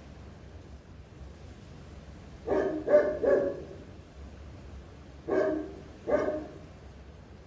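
Anatolian shepherd dog (Kangal) barking: three barks in quick succession, then two more a couple of seconds later.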